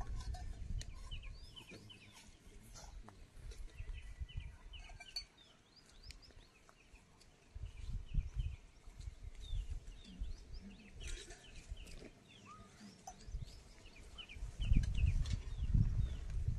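Small birds chirping in many short, quick notes, with bursts of low rumble, loudest near the end.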